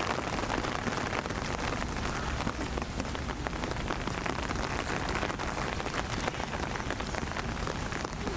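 Steady rain falling, with many separate drops tapping close by over an even hiss.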